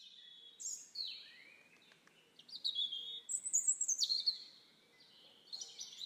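Wild birds calling: a series of short, high chirps and whistles, several of them sliding down in pitch, coming in bursts about once a second.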